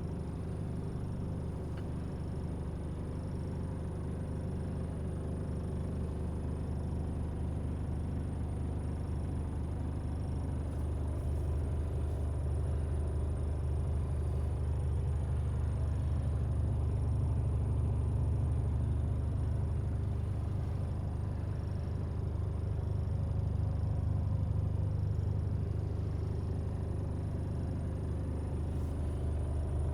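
Mercedes Actros 1840's 400 bhp Euro 6 diesel engine running steadily with a low rumble, growing slightly louder partway through.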